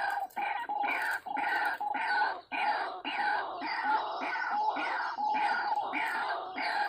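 White-breasted waterhen (ruak-ruak) calls, the same harsh two-part note repeated steadily about twice a second, used as a trapping lure call.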